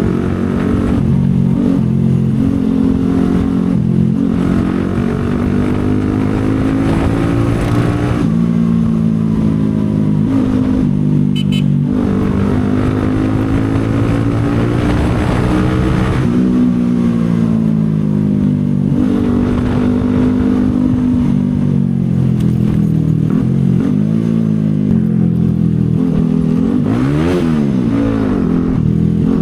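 CFMoto 250SR Lite's single-cylinder engine running under way, its pitch climbing under acceleration and dropping back several times as gears change and the throttle eases. A brief high-pitched beep sounds about eleven seconds in, and a quick rev up and down comes near the end.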